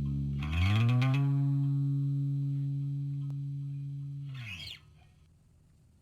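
Closing note of a rock song: a distorted electric guitar note slides up about half a second in, is held while it fades, then slides off and stops near the end, leaving near silence.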